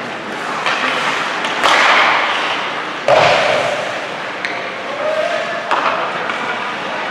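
Ice hockey play in a rink: several sharp knocks and bangs, the loudest about three seconds in with a ringing echo after it, over steady crowd and arena noise.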